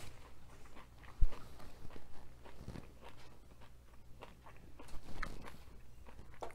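Close-miked chewing with the mouth closed: soft wet mouth sounds and scattered small clicks. One sharp low thump about a second in.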